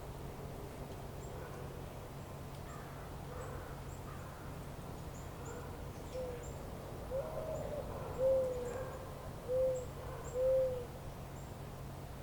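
A bird giving a run of low hooting calls, about five arched notes over the second half, the last three short and evenly spaced, over a steady low background hum. Faint high chirps from small birds come and go.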